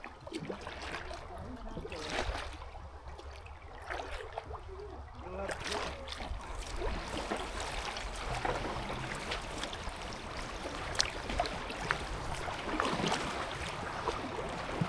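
Kayak paddle strokes splashing in river water, then from about five seconds in a steady rush of moving water around the kayak.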